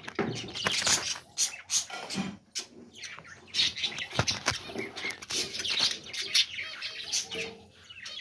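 Pet budgerigars chattering, with quick, irregular chirps and harsh squawks.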